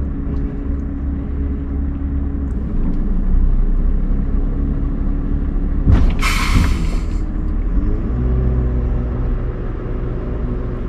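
Scania R580 truck's V8 diesel running steadily, with a sharp click and a hiss of air lasting about a second from the truck's air system, about six seconds in.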